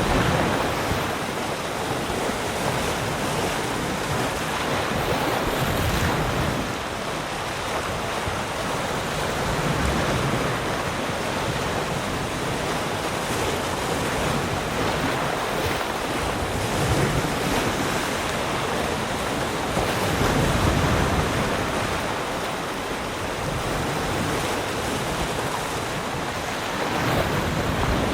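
Ocean waves breaking and washing on a shore, a continuous surf wash that swells and eases every few seconds.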